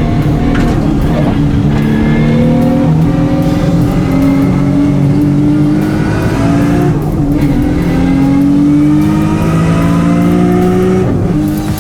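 Race car engine at full throttle, its pitch climbing hard through each gear and dropping back at several quick upshifts.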